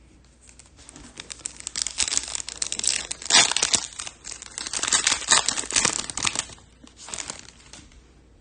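Foil trading-card pack wrapper being torn open and crinkled, a dense crackling that is loudest in the middle and dies away near the end.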